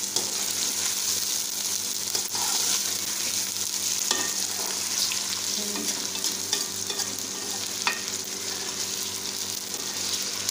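Chicken pieces sizzling in hot oil in a pot over a high flame, a steady frying hiss, while being stirred with a spoon that gives a few sharp clicks.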